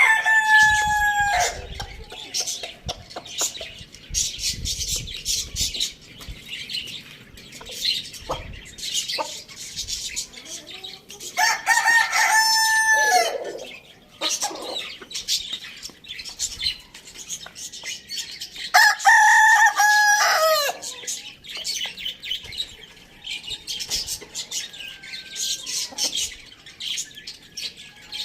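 Rooster crowing three times, each crow about two seconds long, with clucking and small chirps in between.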